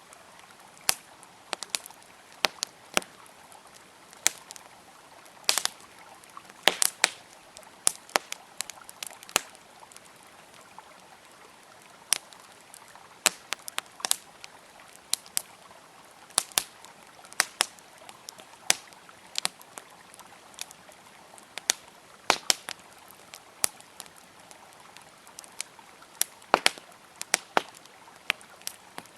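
Wood fire crackling, with sharp irregular pops, over a steady rush of flowing river water.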